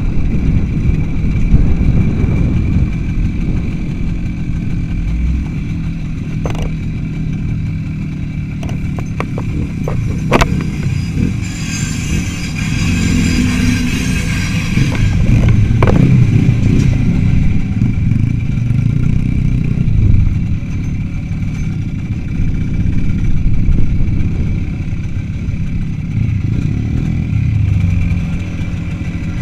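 Motorcycle engine running under way, a continuous rumble with a few sharp knocks about a third and halfway through.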